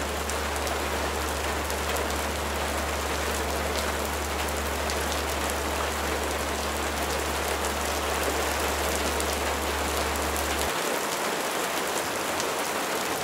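Steady rain, an even hiss with scattered fine drop ticks, over a low steady hum that stops about eleven seconds in.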